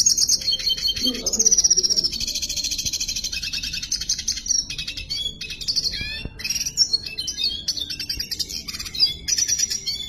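Red siskin singing a long, unbroken song of high, rapid buzzy trills mixed with quick twittering notes.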